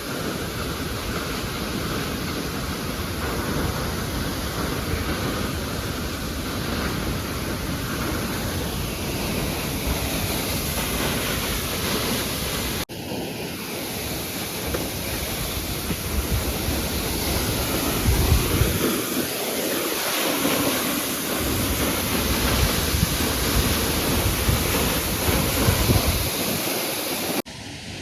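Steady rushing roar of a waterfall, with wind buffeting the microphone in low gusts now and then. The sound breaks off abruptly twice where the footage is cut.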